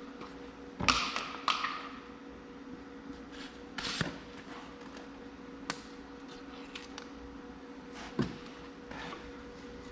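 Five sharp knocks and clatters from hand work on a tractor front axle, the loudest about a second in, over a steady low hum.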